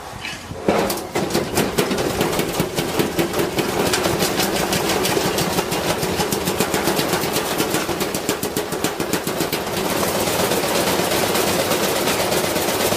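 Washing machine spinning up with a heavy object loaded inside, which bangs against the drum over and over, the bangs coming faster as the spin speeds up. About ten seconds in, the separate bangs blur into a continuous loud clatter.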